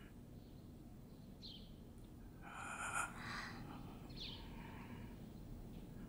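Faint bird chirps, each a short falling note, coming every two to three seconds. A brief breathy noise, the loudest sound, falls a little before the middle.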